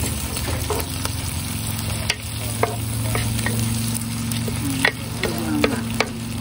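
Chopped onion, garlic and tomato sizzling in hot oil in a pan, stirred with a wooden spatula, with scattered sharp taps and scrapes of the spatula against the pan. A steady low hum runs underneath.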